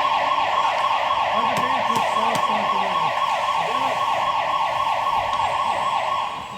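An electronic siren-like signal sounding loudly: a fast repeating falling tone, about four or five sweeps a second, that cuts off suddenly near the end.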